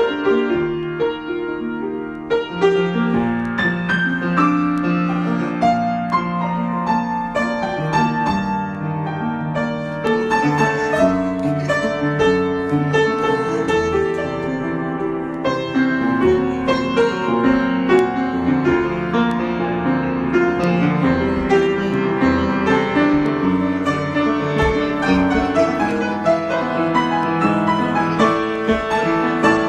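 Solo piano improvisation: a steady flow of notes, with chords held in the bass and lines moving in the treble. It grows slightly fuller and louder about ten seconds in.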